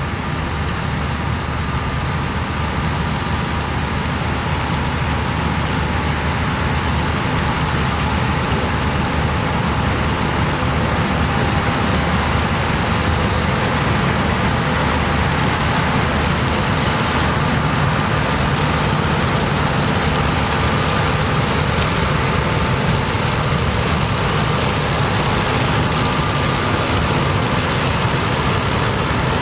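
Combine harvester running under load while harvesting corn, a steady machine noise with a few constant whining tones, growing louder over the first ten seconds or so as it comes closer.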